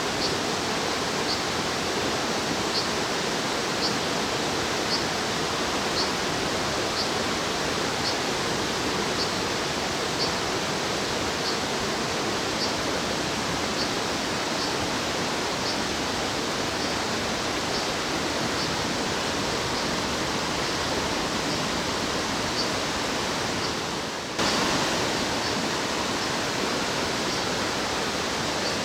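Steady rushing of stream water, with a short, high call repeated about once a second: brown dipper fledglings calling. The rushing briefly drops and comes back slightly louder about four seconds before the end.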